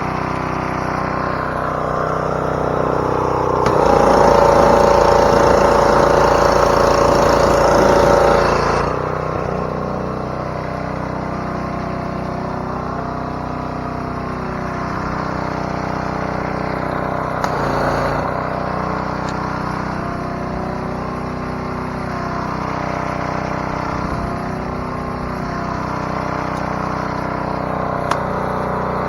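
Pressure washer motor running steadily. From about four seconds in to about nine seconds it gets louder, with a hiss of water spraying.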